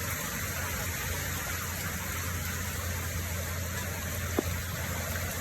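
Heavy rain falling steadily, an even hiss with a low hum beneath it, and one short knock about four seconds in.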